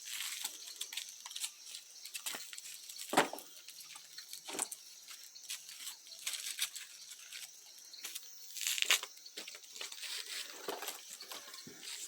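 Dry wood and branches being handled and stacked into an unlit bonfire: scattered rustling and crackling, with a louder knock of wood about three seconds in.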